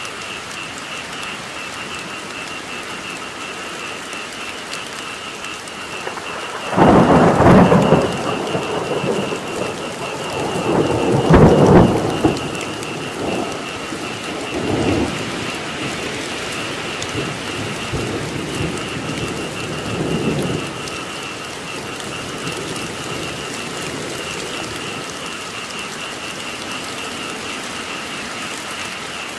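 Steady heavy rainfall with a continuous high-pitched pulsing chorus of frogs. About a quarter of the way in, thunder rolls in, swells twice and dies away over about fourteen seconds.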